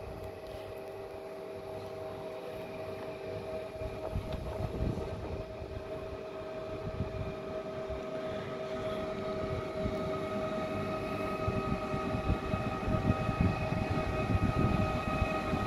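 PESA Elf EN76 electric multiple unit approaching, its traction motors giving a steady multi-tone electric whine over wheel rumble that grows steadily louder as it comes in.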